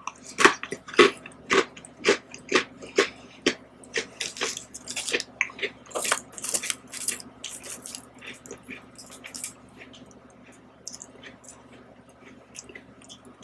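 Close-miked crunchy chewing of an Oreo cookie, a crisp crunch about twice a second at first, then quicker and more irregular, dying away to quiet chewing in the last few seconds.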